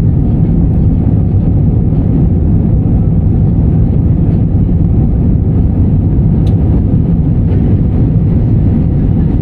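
Steady low rumble of an airliner's engines and airflow heard inside the passenger cabin, with a faint tick about six and a half seconds in.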